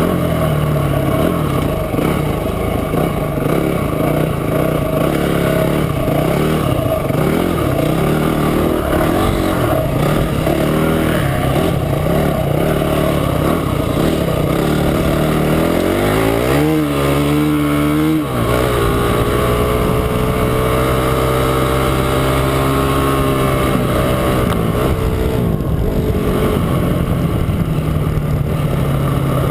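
Motorcycle engine running under way on a trail. About two-thirds through it revs up sharply, drops off at a gear change, then its pitch sinks slowly as it eases off.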